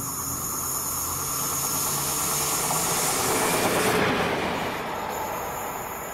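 Train passing along the line, its noise building to a peak about four seconds in and then fading.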